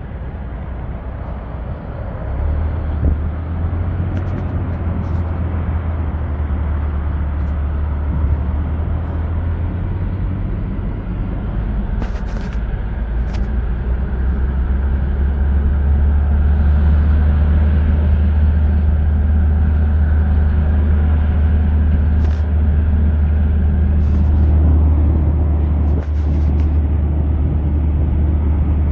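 Car interior road and engine noise while driving: a steady low rumble that grows louder about two seconds in and again around the middle, with a few faint clicks.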